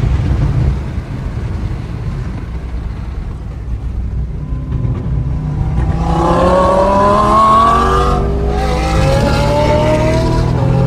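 Car engine at a low steady rumble, then accelerating hard: its pitch climbs, drops at a gear upshift a little after halfway, and climbs again.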